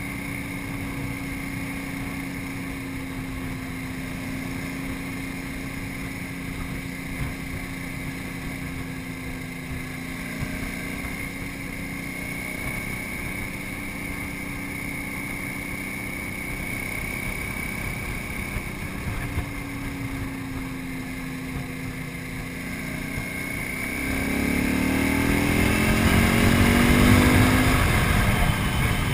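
KTM 950 Super Enduro's 950cc V-twin engine running steadily at road speed, with wind on the microphone. About 24 seconds in the engine revs up and grows louder as the bike accelerates to overtake a pickup truck.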